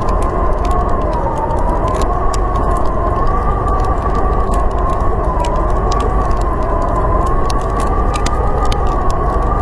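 Howling blizzard wind, a deep rumble under a high moaning howl that slowly wavers up and down in pitch, with a wood fire crackling in sharp, scattered pops.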